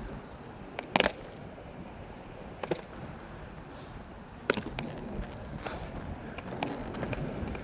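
Roller skate wheels rolling steadily over pavement, a constant low rumble broken by a few sharp clicks.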